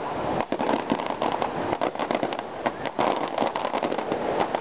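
Aerial firework shells bursting, giving a dense, unbroken run of sharp crackling pops and bangs.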